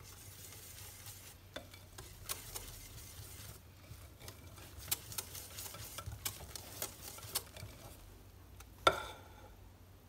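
Lemon cake batter being stirred by hand in a bowl, with small clicks and scrapes of the utensil against the bowl and one louder ringing knock near the end.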